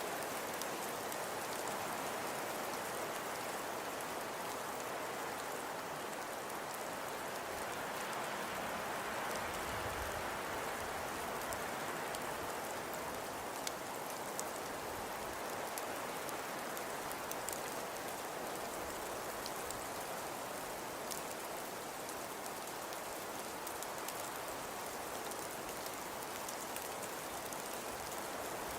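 Steady pattering hiss of falling precipitation on a surface, with scattered faint ticks throughout.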